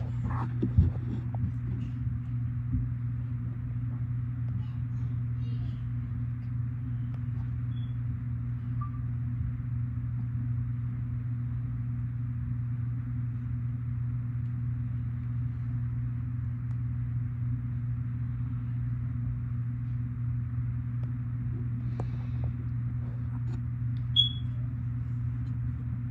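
A steady low hum with a faint hiss above it, with a few light clicks near the start and a brief high chirp near the end.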